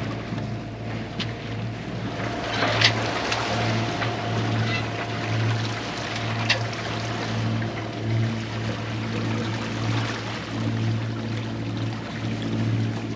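A sailboat's inboard engine running steadily under way, a low even hum over the hiss of wind and water. There are two or three short clicks in the first half.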